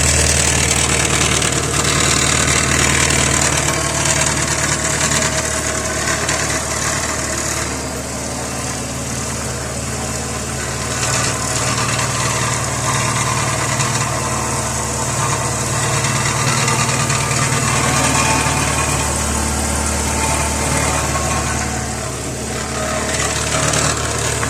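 Car engine idling with an exhaust leak at a pipe joint whose clamp has worked loose: exhaust gas hissing out of the joint and the pipes rattling against each other.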